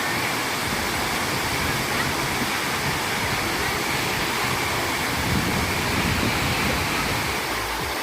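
Waterfall rushing, a steady roar of falling and splashing water.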